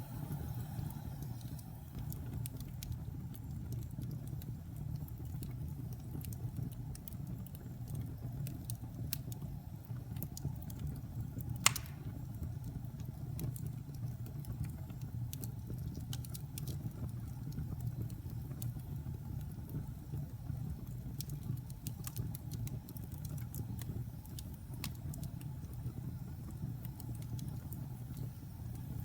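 Wood fire crackling in a fireplace: scattered small pops and snaps over a steady low rumble, with one sharp, louder pop about twelve seconds in.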